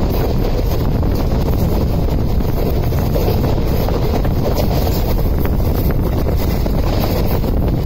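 Passenger train running at speed, heard from the coach: a steady rumble of the wheels on the track with wind blowing across the microphone.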